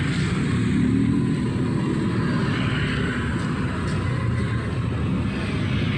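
Street traffic: engines of passing cars and motorbikes running in a steady, continuous mix.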